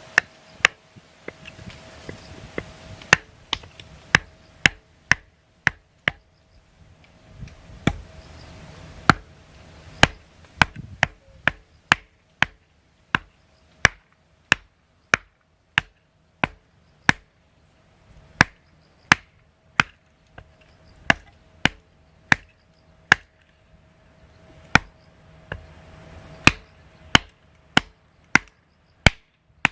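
Kindling being chopped for a campfire: sharp, short strikes on wood, about two a second, kept up steadily throughout.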